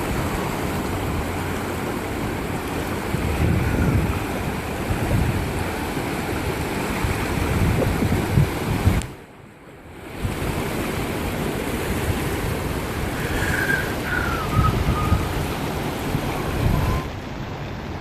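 Swollen River Irwell floodwater rushing steadily, with wind buffeting the microphone. The sound drops out briefly about halfway through.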